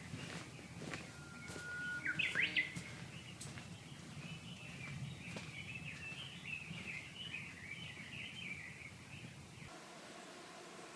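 Wild birds calling and singing: a short held whistle about a second and a half in that breaks into quick rising notes, then a long run of chirping twitters. A low background hush stops abruptly near the end.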